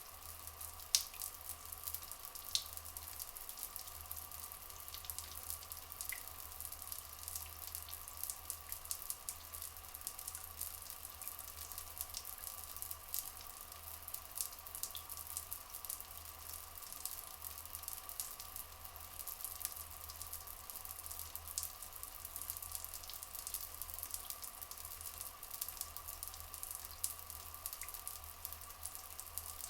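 Running water with a steady flow and constant small drips and splashes.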